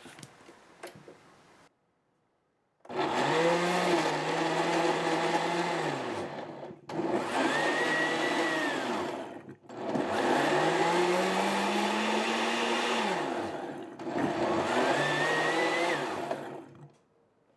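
Countertop blender running in four bursts of a few seconds each, starting about three seconds in, its motor pitch rising as it spins up and falling as it stops, puréeing boiled tomatillos and spices for a green sauce.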